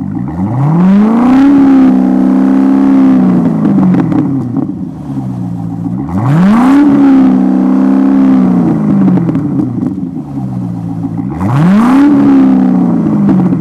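2012 Corvette V8 through a Billy Boat Bullet aftermarket exhaust, revved three times while parked: each time the pitch climbs quickly, holds high for a second or two, then falls back to idle.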